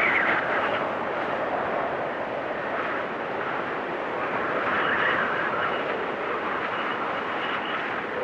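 Storm wind blowing steadily with a faint high whistle. It gusts stronger near the start and again about five seconds in.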